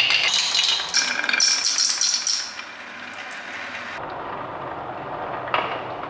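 Small hard toy pieces rattling and clinking together in rapid clusters of clicks, dropping to a quiet hiss midway and starting up again near the end.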